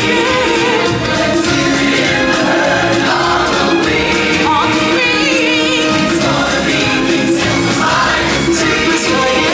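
Loud live show music: a choir singing over the band, with a high solo voice wavering above it about halfway through.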